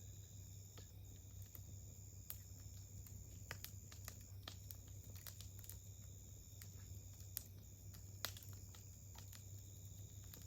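Wood campfire crackling softly, with irregular small pops and a few sharper snaps, the loudest about 8 seconds in.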